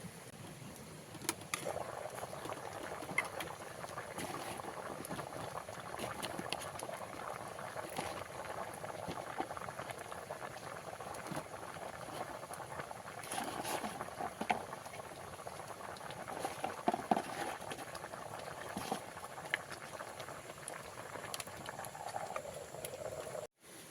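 Water bubbling at a boil, a steady dense bubbling with scattered small pops.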